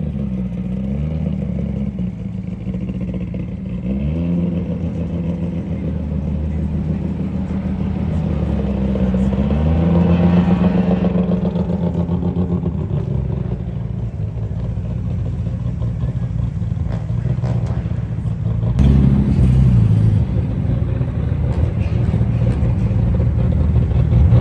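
Car engine idling and being revved, its pitch climbing several times in short rises.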